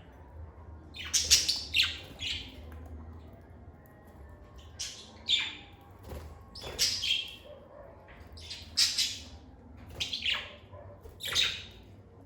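Lovebirds calling: sharp, high-pitched chirps and squawks in short clusters every second or two, over a faint low hum.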